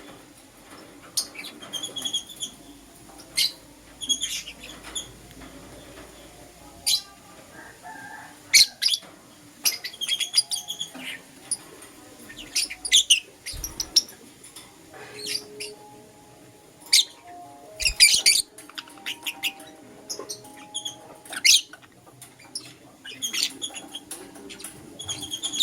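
Lovebirds giving short, shrill chirps at irregular intervals.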